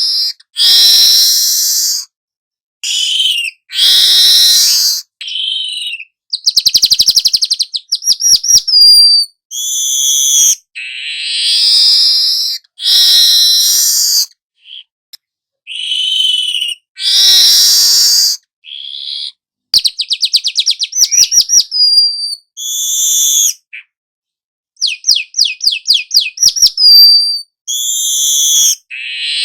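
Young manyar weaver bird singing in long sequences. Harsh, wheezy chattering phrases alternate with several fast, rattling trills, with brief pauses between bouts.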